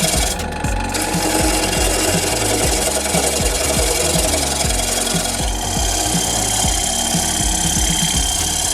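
A lathe gouge cutting wood on a wood lathe: a steady scraping hiss of the tool on the spinning wood, with a thin high ring joining in about halfway through.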